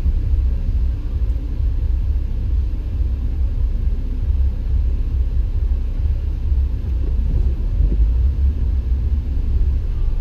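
Steady low rumble of a vehicle driving on a snow-covered road, heard from inside the cabin.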